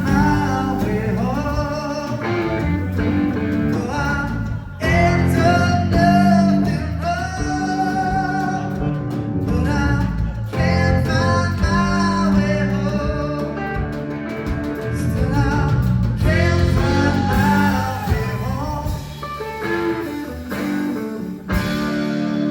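Live rock band playing a blues-rock song, with guitar and a singer's voice over bass and drums.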